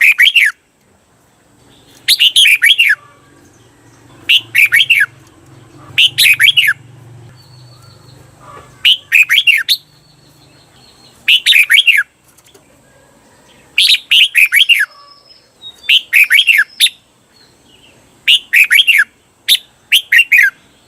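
Red-whiskered bulbul singing: about ten short, loud phrases of quick descending notes, one every one to two seconds. This is the repeated 'double' (เบิ้ล) phrase that keepers play to caged bulbuls to train their song.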